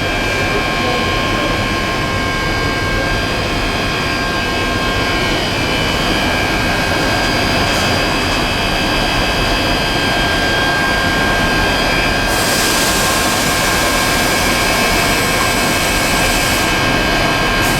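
PE and calcium carbonate pelletizing line machinery running steadily: a dense, loud mechanical noise with several steady whining tones. About twelve seconds in, a high hiss joins it and drops out briefly near the end.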